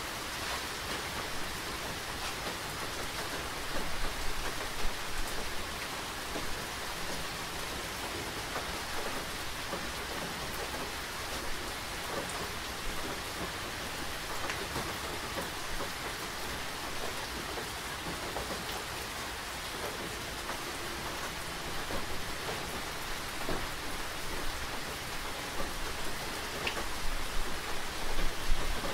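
Steady rain falling, with individual drops tapping close by. It swells louder for a moment about four seconds in and again near the end.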